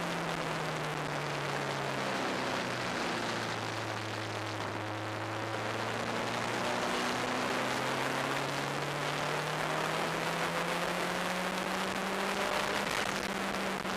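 Onboard sound of an open-cockpit turbocharged track car, its engine heard under heavy wind rush. The engine note drops as the car slows for a corner, holds low for a few seconds, then climbs steadily as it accelerates out.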